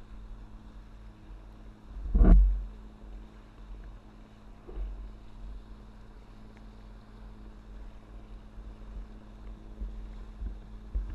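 Wind rumbling on the microphone over the steady drone of a motorboat engine, with one loud thump about two seconds in.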